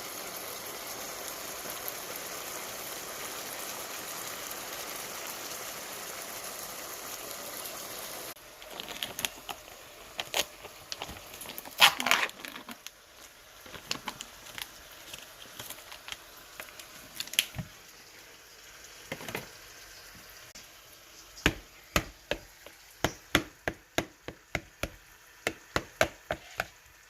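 A steady hiss for about eight seconds that stops abruptly, then close-up eating sounds: scattered crunches, one loud crunch, and rhythmic chewing at about two bites a second near the end.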